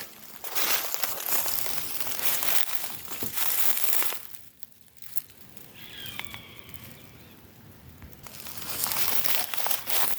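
Rustling and crinkling noise in two stretches, with a quieter gap in the middle. Faint short high notes sound during the gap.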